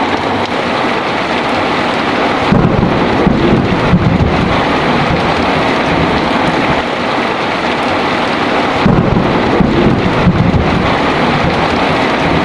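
Heavy rain falling steadily, with two low rolls of thunder, one about two and a half seconds in and another about nine seconds in.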